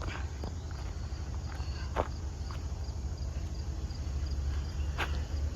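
Steady low rumble with a few sharp knocks, the loudest about two seconds in and another about five seconds in, over a faint, evenly repeating high chirp.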